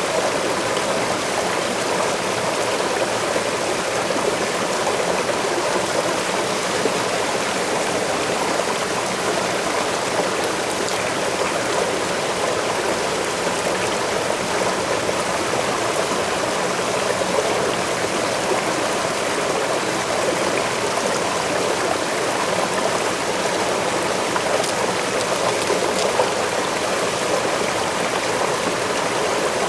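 Waterfall rushing steadily: a constant, unbroken wash of falling water.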